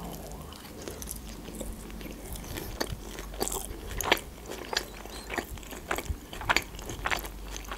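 Sushi roll being bitten and chewed close to the microphone: irregular sharp mouth clicks and smacks, several a second.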